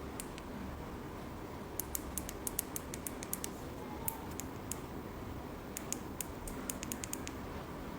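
A ring light being handled and set up: two runs of quick, sharp small clicks and creaks, the first about two seconds in and the second about six seconds in, over a low steady room hum.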